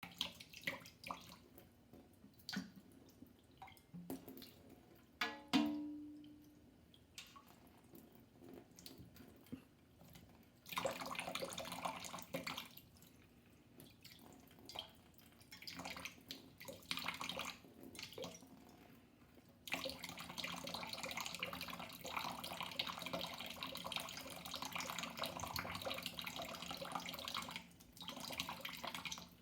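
Water dripping and splashing into a sink, with a tap running steadily for a second or two just after ten seconds in and again for about eight seconds from around twenty seconds in.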